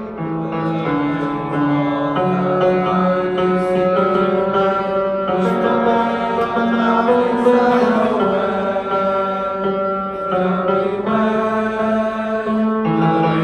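Choir bass section singing a chorus phrase together in low, sustained notes that change pitch every second or so.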